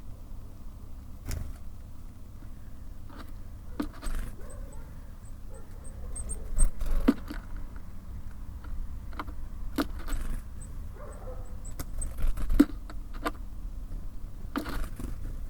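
Small birds at a feeder: irregular sharp taps and clicks of pecking and landing on the feeder, with two runs of short, very high calls. A steady low rumble lies underneath.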